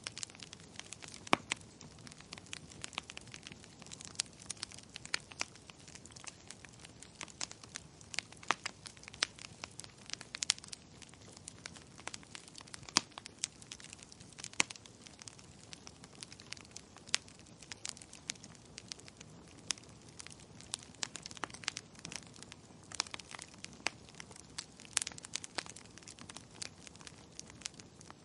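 Wood fire crackling in a fireplace, with many irregular sharp pops and snaps over a faint steady hiss.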